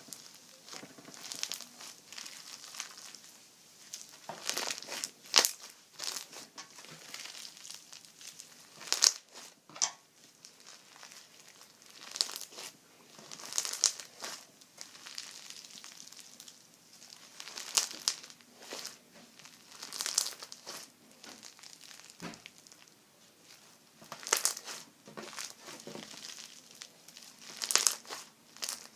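Slime being squeezed and pressed by hand, giving short bursts of crinkly squishing sound every two to four seconds.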